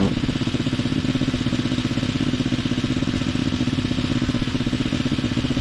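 Small petrol lawn mower engine running steadily at an even speed.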